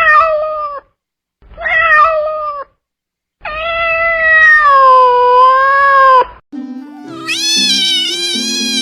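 Domestic cat meowing: two short meows, then one long drawn-out meow of about three seconds. After it, backing music comes in with a higher, wavering cat call over it.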